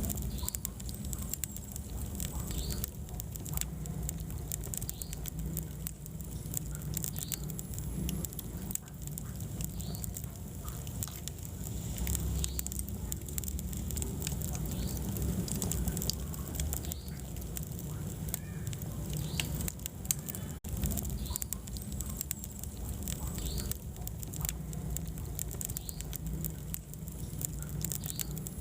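Wood fire burning in a fireplace: frequent small crackles and pops over a steady low rumble of flames, with short high squeaks and hisses every second or two.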